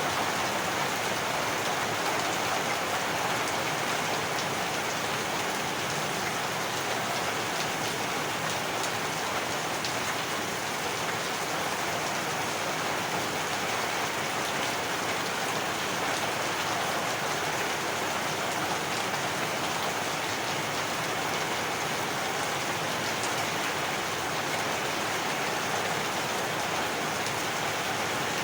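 Heavy rain falling steadily, a dense even hiss of drops hitting surfaces, with fine patter throughout.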